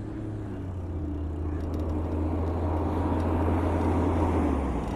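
Road traffic: a vehicle's low, steady rumble growing gradually louder as it approaches.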